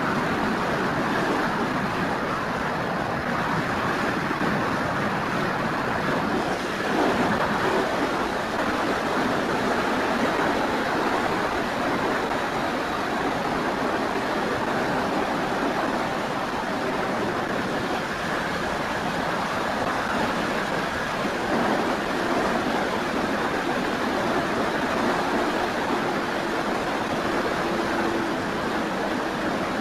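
Steady rushing wind and airflow noise over the microphone of a keychain camera mounted on an FMS Cessna 182 RC model plane in flight, with a faint steady hum from its electric motor and propeller at the start and again near the end.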